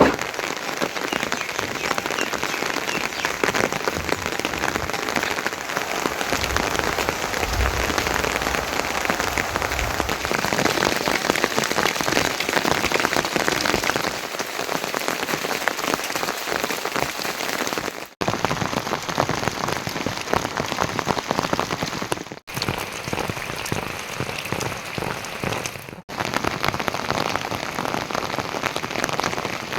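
Heavy rain falling steadily in a dense, even patter. The sound briefly drops out three times in the second half.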